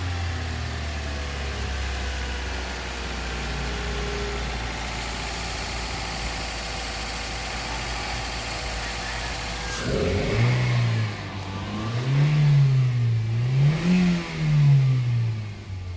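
Toyota Vios engine running at a high fast idle while warming up after a cold start, smooth and no longer choking now that its carbon-fouled servo has been cleaned. About ten seconds in it is revved up and down several times.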